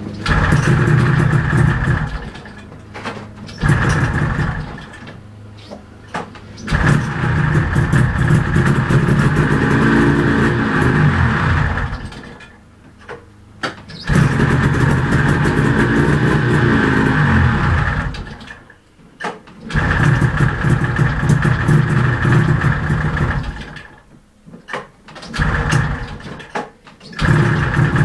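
1970s Arctic Cat Panther snowmobile's two-stroke engine on a cold start, catching and running for a few seconds at a time, then dying out, about five times over, with a couple of brief rises in revs. It is having trouble drawing fuel after sitting for about two months.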